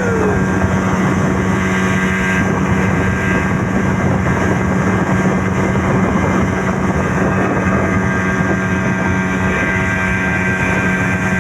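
Speedboat engine running steadily at cruising speed, a continuous loud drone.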